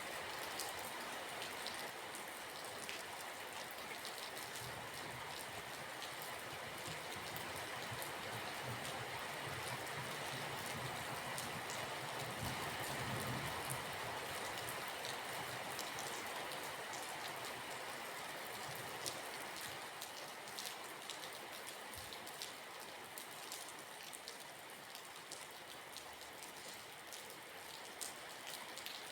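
Steady rain falling, a constant patter with many individual drops ticking. A low rumble swells and fades under it in the first half.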